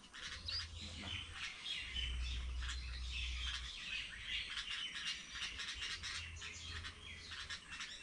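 Birds calling from inside a dense shrub: many short, overlapping high chirps and squawks in a busy, continuous chatter.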